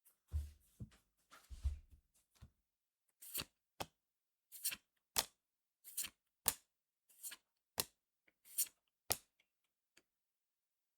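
Trading cards and booster-pack foil being handled: a couple of seconds of soft rustling, then a run of about ten crisp snaps in pairs, roughly one pair a second, as cards are flicked through.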